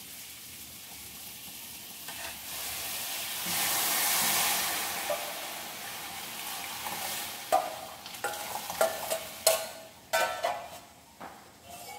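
Mung beans and their cooking liquid sizzling as they are poured into a hot wok, the hiss swelling about three and a half seconds in. From about seven and a half seconds, a spatula gives a run of sharp knocks and scrapes against the stainless saucepan as the last beans are scraped out.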